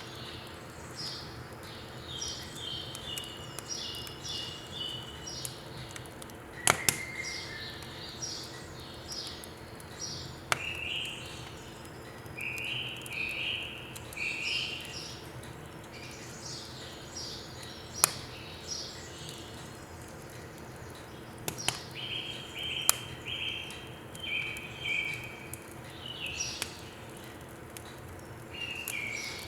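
Birds singing repeated phrases of short chirping notes, with a few sharp pops of firewood crackling in a wood stove.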